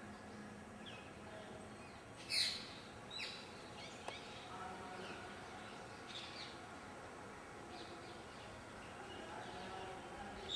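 Birds calling over a steady background hiss: a few short, quick chirps, the loudest about two seconds in, with fainter ones scattered through.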